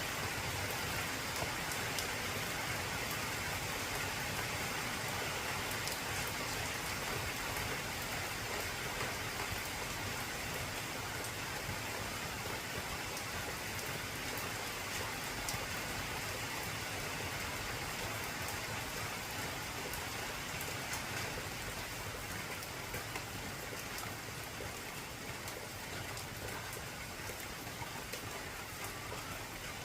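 Heavy rain falling on an old corrugated zinc (tin) roof: a dense, steady hiss with scattered sharp ticks of individual drops hitting the metal, easing very slightly near the end.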